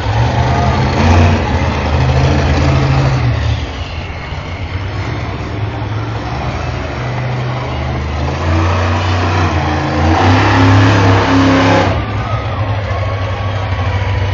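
Monster truck engine revving in two long surges, the first at the start and the second from about eight to twelve seconds in, over a steady low engine drone.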